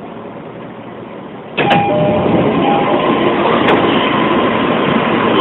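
E231 series commuter train at rest, its cabin quiet, until about one and a half seconds in, when there is a click and a sudden jump in loudness as the doors open and the noise of the station platform comes in, with some steady tones among it.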